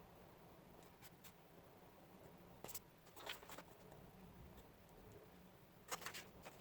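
Quiet room with three brief clusters of soft scrapes and clicks, like small objects being handled, about two and a half seconds in, a second later, and near the end.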